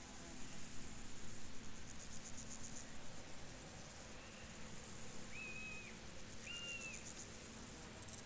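Field crickets chirping in fast, high-pitched pulsing trills that come and go in bursts. Two short, flat whistled bird notes come just past the middle.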